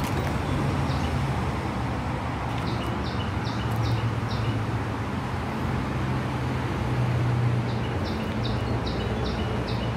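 A bird calls two runs of short, evenly spaced high notes, about three a second, the first about three seconds in and the second from about eight seconds in, over a steady low rumble of distant traffic.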